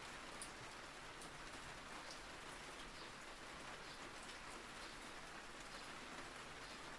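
Soft, steady rain: an even hiss with scattered sharp ticks of individual drops.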